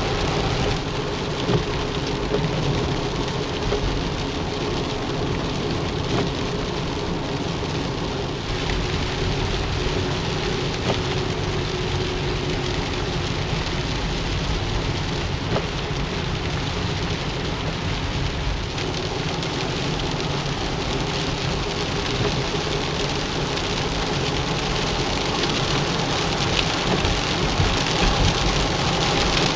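Heavy rain falling steadily, with a faint steady hum underneath.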